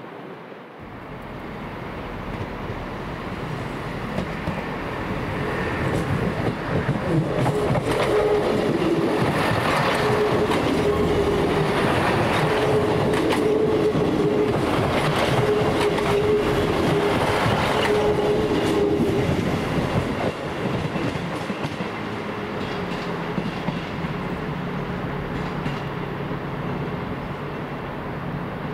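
A train running through the station. It grows louder over the first several seconds and is loudest through the middle, with wheels clattering over the rail joints and a steady whine, then it eases off.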